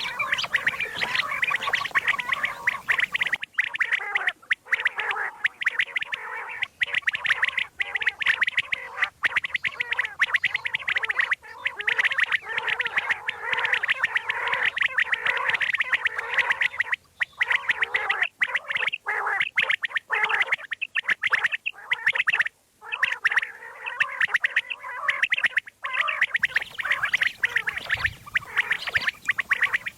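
Common quail calls: a fast, dense chattering that runs on continuously, broken by a few brief pauses.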